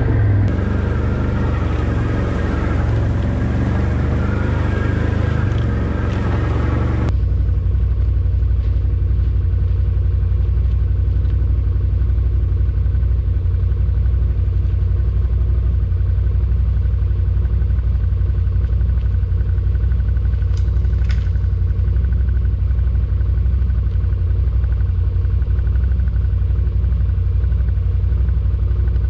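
ATV engine running steadily under way. The sound changes abruptly about seven seconds in, after which a steady low rumble continues.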